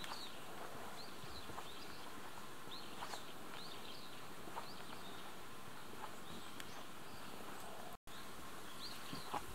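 Small birds giving short, high chirps now and then over a steady outdoor hiss, with a few faint taps like footsteps on the paved lane. The sound drops out for an instant about eight seconds in.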